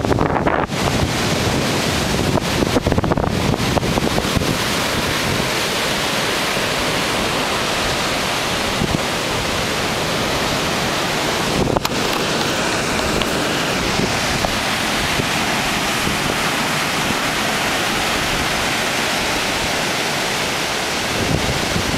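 Strong wind blowing across the microphone over heavy surf, a steady rushing noise, ahead of a tropical storm.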